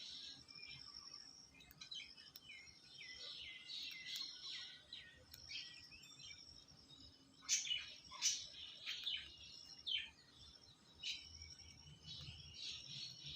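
Birds chirping and trilling almost without a break, with a few louder, sharper calls about halfway through.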